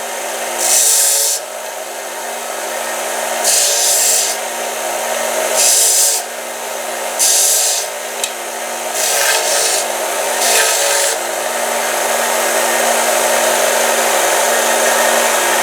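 Harbor Freight 1x30 inch belt sander running with a steady motor hum, as a workpiece is pressed against the belt in about six short passes of harsh grinding during the first eleven seconds, then running free.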